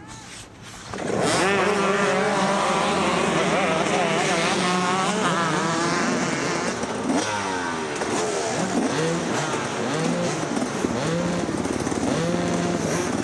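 Several dirt bike engines revving and accelerating together, their pitches rising and falling and crossing one another, starting suddenly about a second in.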